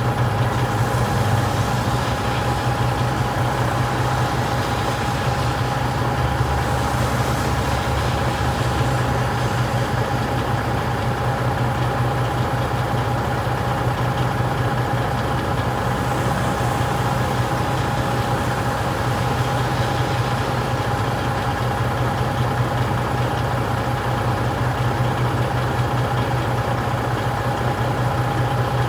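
Tractor-trailer diesel engine idling steadily, with a constant low hum and a thin high-pitched whine over it.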